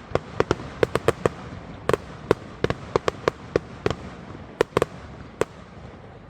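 A fireworks display firing a rapid, irregular volley of sharp bangs, about twenty of them, a few a second. They stop about five and a half seconds in.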